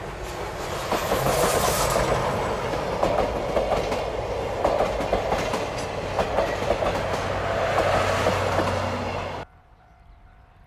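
Steam-hauled passenger train of C11 171 rolling past, coach wheels clicking over the rail joints, loudest in the first couple of seconds. The sound drops off abruptly about nine and a half seconds in, leaving only a faint background.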